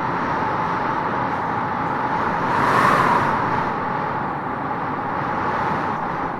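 Vehicle sound effect: a steady motor and road noise that swells as if passing by about three seconds in, then settles.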